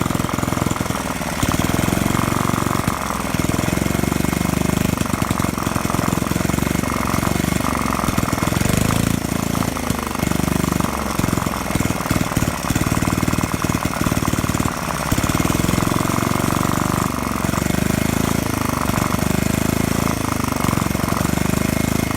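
Old Reo pull-start gasoline engine running with a rapid, pattering exhaust beat, firing unevenly for a few seconds around the middle.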